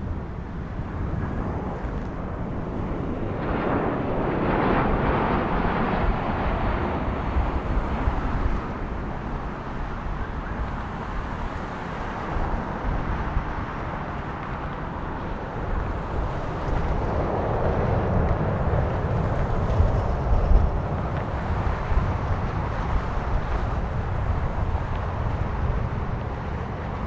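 Jet engines of a Boeing 767-300 freighter during its landing, a steady broad rushing noise that swells around four seconds in and again near eighteen seconds.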